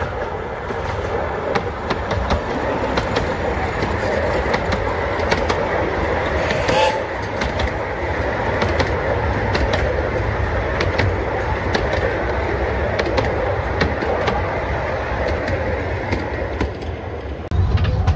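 10¼-inch-gauge miniature railway train rolling past close by: a steady rumble with the wheels clicking over the rail joints, and a brief hiss about seven seconds in. Near the end the sound changes to a louder, lower rumble, as heard riding in one of the open carriages.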